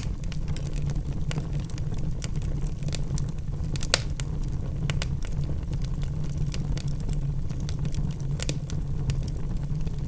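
Logs burning in a fireplace, crackling with scattered sharp pops over a steady low rumble of the flames. The loudest pop comes about four seconds in, and another a little past eight seconds.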